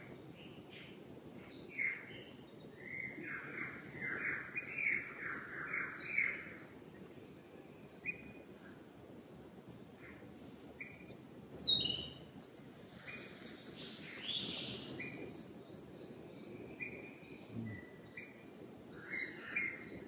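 Several wild birds calling at dawn: a chorus of chirps and short calls, busiest a few seconds in, with one loud call about halfway through that falls in pitch.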